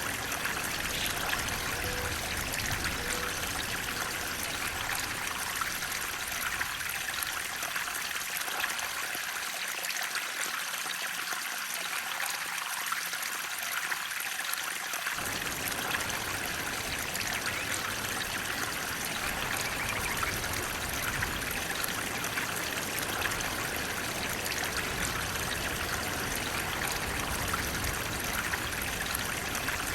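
Water flowing steadily in a continuous, even rush. Its low rumble thins out about a quarter of the way in and comes back suddenly about halfway.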